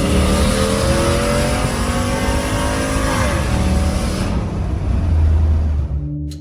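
Turbocharged Hemi V8 of a 2015 Ram 1500 pulling under acceleration with a heavy exhaust rumble, its pitch rising for about three seconds and then dropping, with wind and road noise throughout. The sound cuts off shortly before the end.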